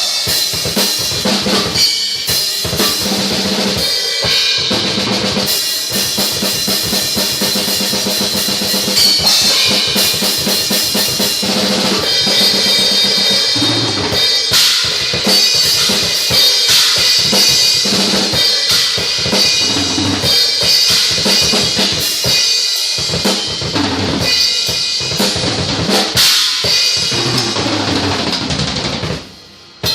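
Ten-piece Pearl Export drum kit played hard: fast bass drum and snare hits with rimshots under a constant wash of Paiste, Zildjian and Sabian cymbals. The playing stops for about a second near the end, then comes back in.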